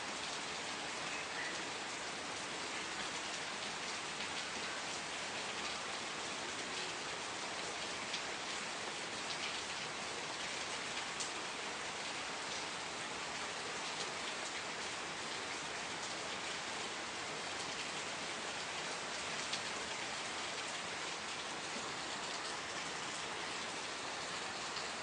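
Steady rain falling, an even dense patter with occasional individual drops ticking out.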